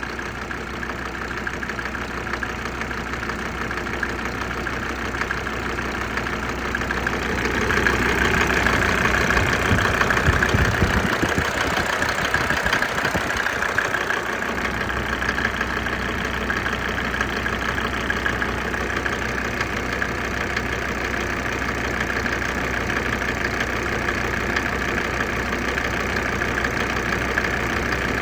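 Mercedes-Benz OM605 five-cylinder diesel idling with its glow plugs still switched on in the post-glow phase. The sound grows louder for several seconds about a third of the way in, with an uneven low rumble, then settles back to a steady idle.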